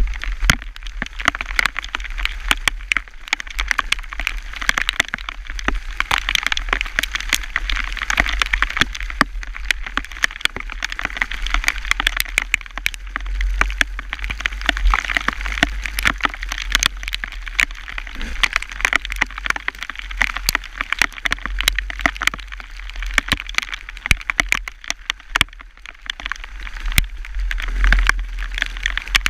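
Rain and hail pelting down: a dense, irregular crackle of sharp impacts over a low rumble.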